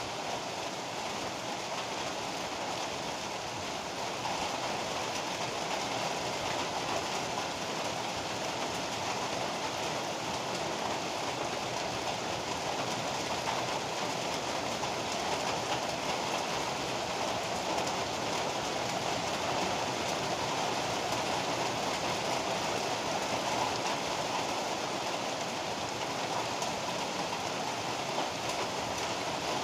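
Heavy rain falling steadily, a dense even hiss with no thunder, growing a little louder about four seconds in.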